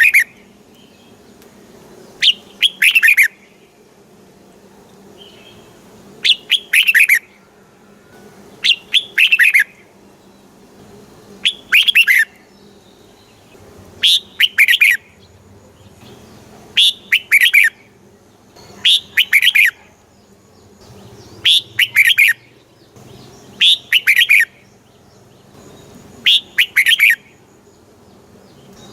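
Red-whiskered bulbul singing: short phrases of quick, downward-sliding whistled notes, one phrase about every two and a half seconds.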